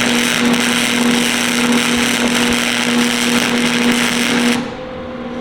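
Wire-feed welder arc crackling and hissing as a bead is laid, over a steady electrical hum; the arc cuts off suddenly about four and a half seconds in, leaving only the welder's quieter hum. It is a beginner's first weld, run too fast for the puddle to fill.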